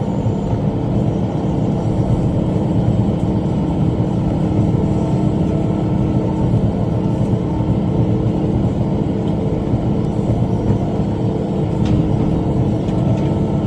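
Tractor engine running steadily under load while driving a rotary cutter (bush hog) through brush.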